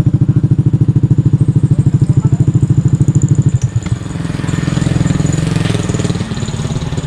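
Motorcycle engine breathing through an SC Project aftermarket exhaust with a modified elbow, running with a loud, even pulsing beat; about three and a half seconds in it changes to a smoother note that climbs in pitch.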